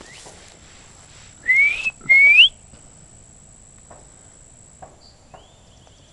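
A person whistling two short rising notes in quick succession, imitating a bird's call. Near the end a fainter rising whistle answers and holds on one pitch.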